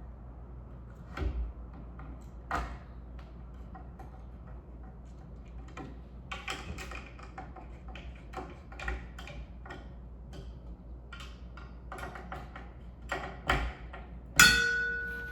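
Hard metal parts being handled, clicking and knocking, with a run of rapid clicks partway through. Near the end comes one sharp metallic strike that rings on and dies away over about a second.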